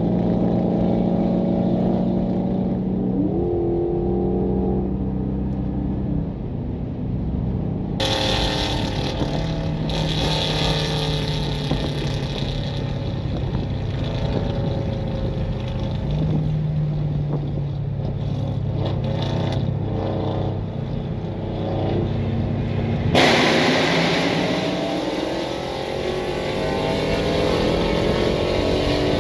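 Hemi V8 car engines running at highway speed during roll races, over road and wind noise. The engine tone holds steady for several seconds at a time, steps in pitch a few times and rises once early on. The sound changes abruptly twice, like cuts between clips.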